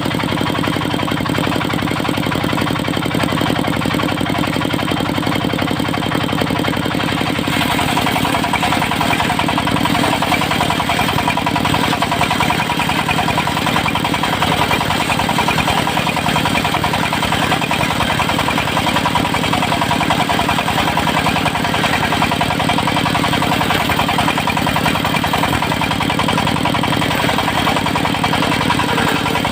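Engine of a portable circular sawmill running steadily with a constant hum. About seven and a half seconds in, the sound turns brighter and hissier and stays that way.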